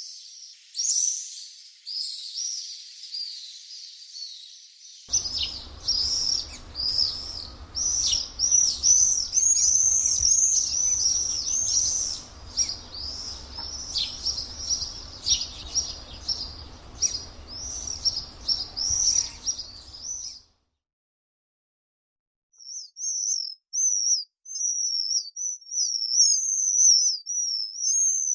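Common swifts screaming: dense, shrill, repeated high calls that break off about twenty seconds in. After a short silence, a thinner wavering high trill takes over near the end.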